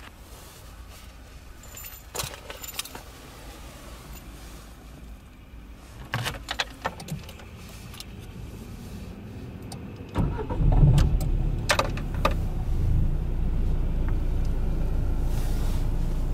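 Keys jingling and clicking in the ignition of a 2015 Lada Granta Liftback. About ten seconds in, its four-cylinder petrol engine cranks, catches with a short surge, then settles into a steady idle.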